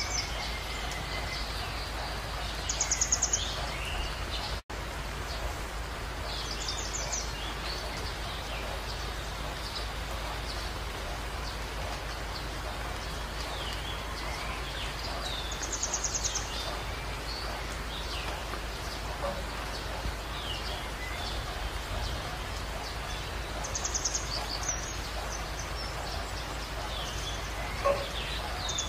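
Small birds chirping, with a short high trill every several seconds and quick falling chirps in between, over a steady background hiss and low hum.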